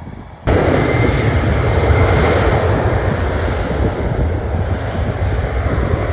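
Airliner engines running loud and close: a steady rushing noise with a faint high whine, cutting in abruptly about half a second in.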